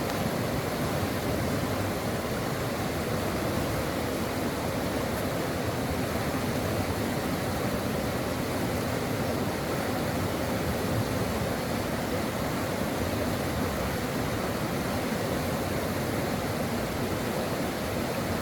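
A stream rushing over rocks, a steady, even wash of water, fuller in the low range, with no single splashes standing out.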